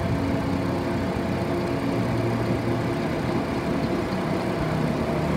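2013 Chevrolet Tornado's four-cylinder petrol engine idling steadily, heard close up with the hood open.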